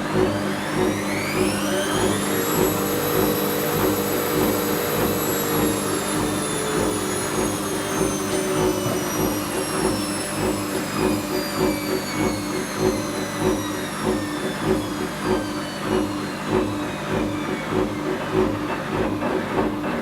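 Whirlpool Indiana 1400 front-loading washing machine spinning its drum: the motor whine rises over the first two seconds or so as the drum speeds up, holds briefly, then slowly falls over the rest, above a steady pulsing rumble from the turning drum.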